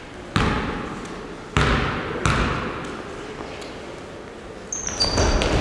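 A basketball bouncing on a gym floor, three separate echoing bounces, with short high sneaker squeaks and more court activity near the end.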